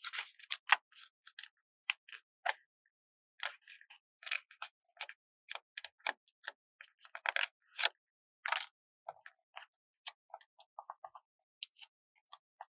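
Paper stickers being peeled from their backing sheet and handled: irregular crinkly crackles and light taps, with a few longer peeling rasps and a quick run of small ticks near the end.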